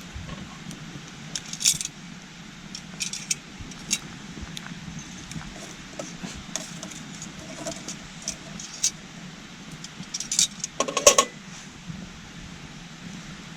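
Scrap-wood campfire crackling with scattered sharp pops and snaps, the loudest cluster about eleven seconds in, over the steady babbling of a small stream.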